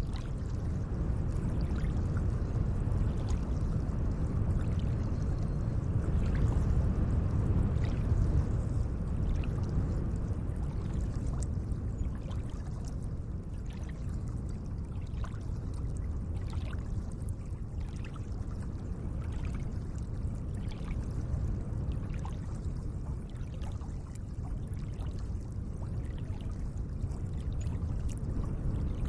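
Gentle lake water lapping: a steady low wash with small splashes scattered through it.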